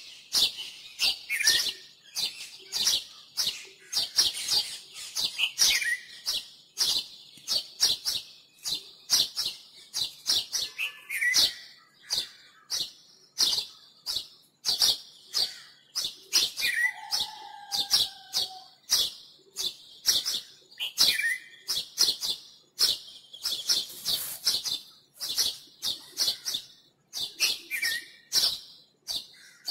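Birds chirping in a busy stream of short, high chirps several times a second, with now and then a lower call sliding downward and one lower drawn-out note a little past the middle.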